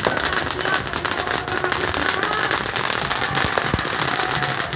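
Fireworks crackling: a dense, unbroken stream of sharp cracks and pops.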